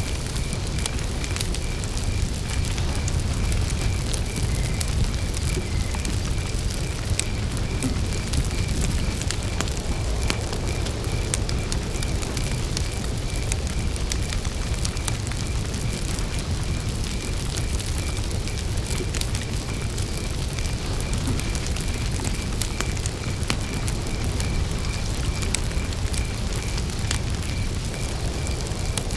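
Wood campfire burning, with scattered crackles and pops over a steady low rumble, while a cricket chirps in an even high-pitched pulse, about two or three chirps a second.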